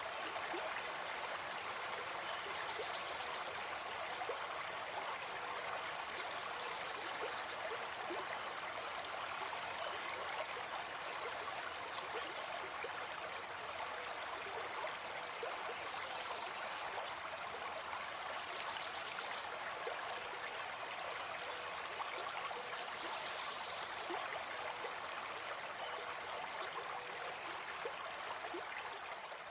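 Gentle forest stream flowing steadily, a continuous rush of water, with faint bird calls now and then.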